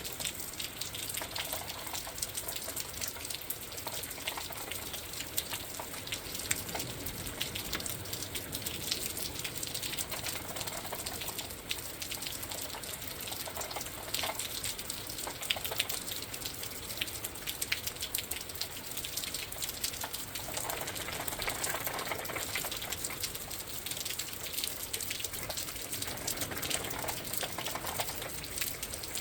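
Rain falling steadily, a dense patter of drops, with gusts of wind swelling and fading every several seconds.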